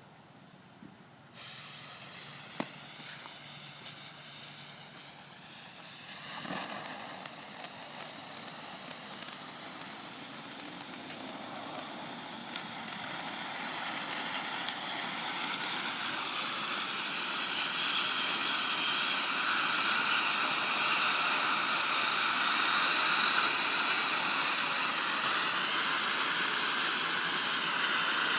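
Cone fountain firework spraying sparks: a steady hiss that starts suddenly about a second in, swells at about six seconds and keeps growing louder, with a few sharp crackles.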